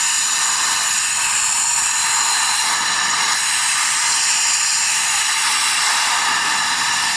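Compressed air hissing steadily from an air line while it tests a cylinder head's intake valve for leaks. The valve on cylinder 1 turns out to hold.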